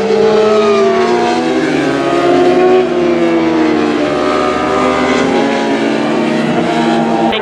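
Several racing engines running at high revs, their overlapping pitches sliding downward as they pass at speed.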